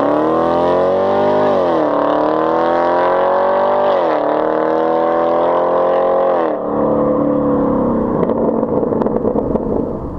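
2019 Camaro SS's 6.2-litre V8 with the mufflers and secondary catalytic converters removed, accelerating hard: the pitch climbs and falls back at two upshifts, then the throttle is lifted about six and a half seconds in. The engine note drops away into a rough, crackling overrun.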